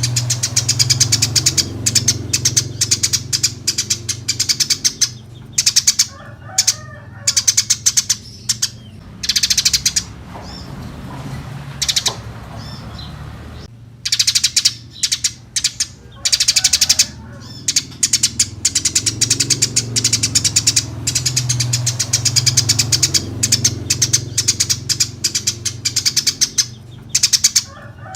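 Eurasian tree sparrows chirping in rapid, dense runs, with a lull of a few seconds about midway. A low hum runs underneath.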